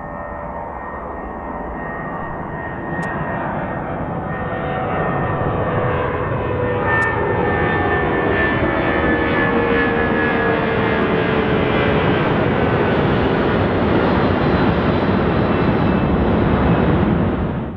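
DHL Boeing 757-200F freighter's jet engines, growing steadily louder as the aircraft comes closer, with whining engine tones that slide slowly lower in pitch. The sound cuts off suddenly near the end.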